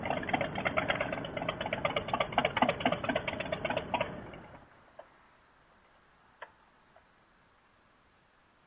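Motorcycle engine running with a rapid, even beat, fading out about four seconds in. After that, near silence with a couple of faint clicks.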